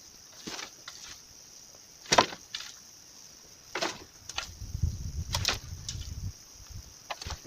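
A hand tool hacking at roots in the soil: five separate sharp chopping strikes a second or so apart, with low rustling and scraping in the middle.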